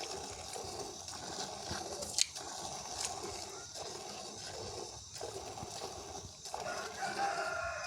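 Rooster crowing several times, with one sharp click about two seconds in.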